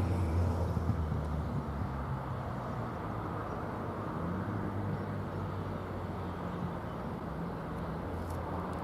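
SN61 diesel railcar running steadily, a low engine drone under the rumble of the moving train.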